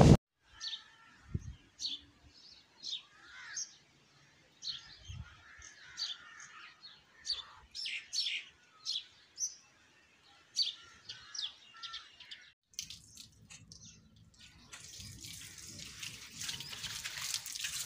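Birds chirping: many short, high calls repeated over about twelve seconds. A faint steady hiss comes in for the last few seconds.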